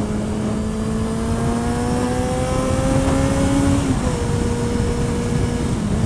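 Yamaha XJ6F's inline-four engine under way, its note climbing slowly as the bike accelerates, then dropping about four seconds in as it changes up a gear, with a steady rush of wind over the microphone.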